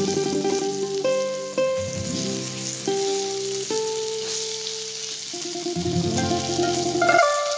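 Wood-boring grubs sizzling as they fry in hot oil in an iron kadai and are turned with a wooden spatula, under background music of held instrumental notes.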